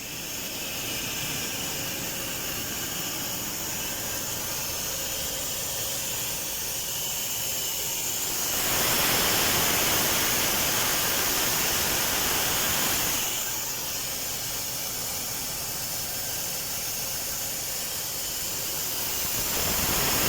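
Compressed-air industrial vacuum cleaner (Dustprom PP-EX/60.2 pneumatic vacuum) running with a steady loud hiss. It gets louder for a few seconds about halfway through and again at the end.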